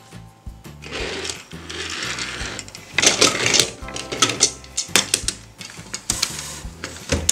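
Small plastic toy buses and a plastic toy garage clicking and clattering as they are handled and set down, with a scraping rustle about a second in. Light background music runs underneath.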